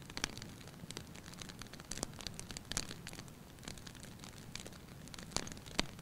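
Wood fire crackling in a fireplace: irregular sharp pops and snaps over a low steady rumble, with the loudest pops near the end.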